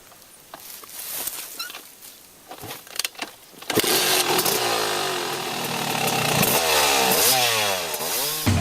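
Dirt bike engine catching about three and a half seconds in after a few clicks and knocks, then running and revving up and down several times.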